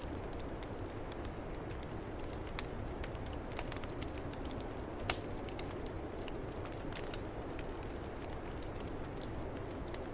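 Wood fire in a fireplace crackling with scattered pops, one louder pop about five seconds in, over the steady low rush of snowstorm wind.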